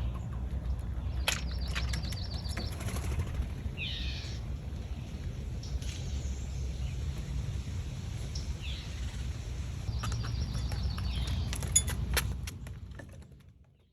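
Short bird calls and rattling trills, with a few clicks, over a steady low rumble; the sound fades out near the end.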